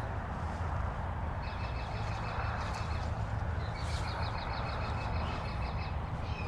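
A bird trilling: two runs of quick repeated chirps, each about two seconds long, over a steady low rumble.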